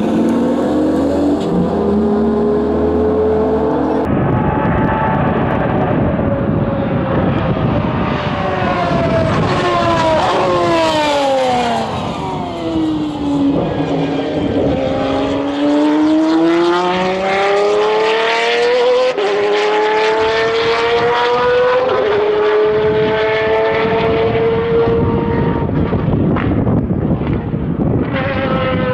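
Pagani Zonda Revolución's naturally aspirated Mercedes-AMG V12 on a race track. The engine note falls as the car slows for a corner, then climbs hard through several upshifts, each marked by a sudden drop in pitch.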